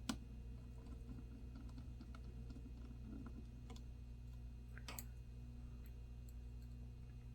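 Faint clicks and light handling of small parts as a small bracket is screwed in inside a laptop: a sharp click at the start, a louder one about five seconds in, and scattered faint ticks between, over a steady low hum.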